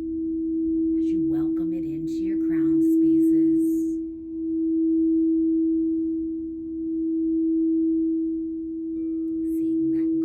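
Singing bowl sounding one sustained, pure tone that swells and fades every couple of seconds as it is played. A second, higher tone joins in near the end.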